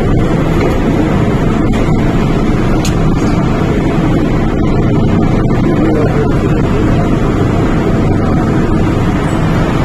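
MTR Tung Chung Line K-Train electric multiple unit running, heard from inside the carriage: a loud, steady rumble of wheels on rails and running gear.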